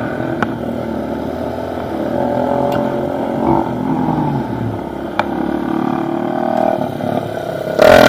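Pit bike engine running as it is ridden, its pitch rising and falling with the throttle.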